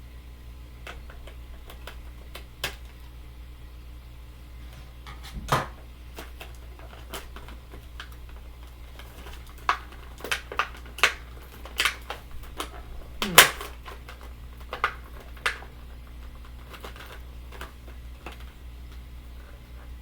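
Irregular clicks, taps and rustles of a toy's cardboard box and plastic packaging being handled and opened, with a cluster of louder snaps past the middle. A low steady hum runs underneath.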